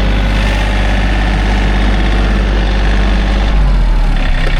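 Engine idling steadily, its sound changing and unsettling in the last second.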